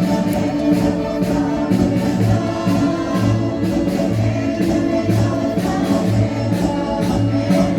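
Marcha popular: a group singing together over band accompaniment with a steady march beat.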